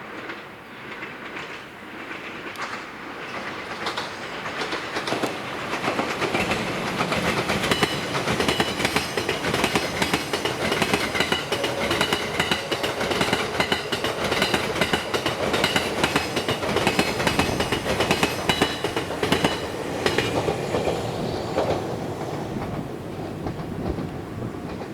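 Train Suite Shiki-shima (JR East E001 series) running along the track, its wheels clicking rapidly over rail joints with a faint high whine above. It grows louder over the first several seconds, holds, then eases off near the end.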